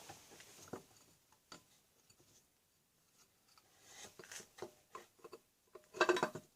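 Plastic oil filter cover and its new O-ring being set into the filter housing of a VW 2.0 TDI diesel by hand: faint scattered clicks and scrapes of plastic, with a louder short clatter about six seconds in.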